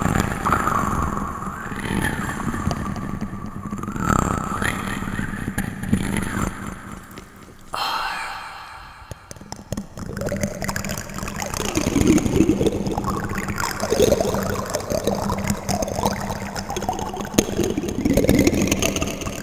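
Plastic spoons being handled and clattering and rubbing together, with an echo effect on the sound.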